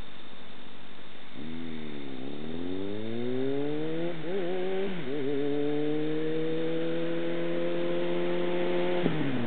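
Kawasaki ZR-7's inline-four engine through an aftermarket Jardine exhaust, pulling under throttle. Its pitch climbs steadily, wavers briefly about four seconds in, climbs again and drops away sharply near the end, over a steady rush of wind noise.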